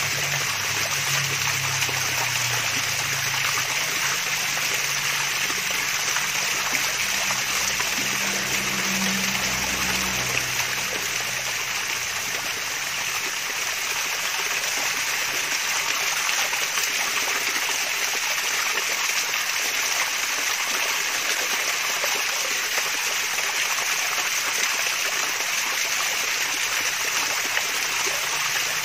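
Water splashing and trickling steadily down a small waterfall, a continuous even rush. A faint low hum sits under it for roughly the first ten seconds, then fades out.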